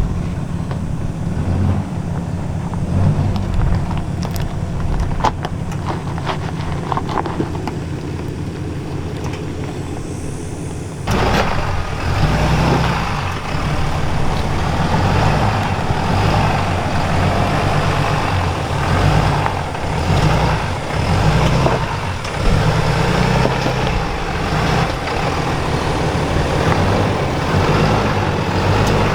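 Ram 2500's Cummins diesel engine pulling the truck up a rocky off-road climb. It gets suddenly louder and harsher about eleven seconds in.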